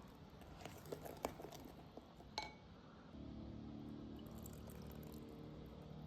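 Light clinks of glass or crockery while cooking, with one clear ringing clink about two seconds in, then a steady low sound from about three seconds in.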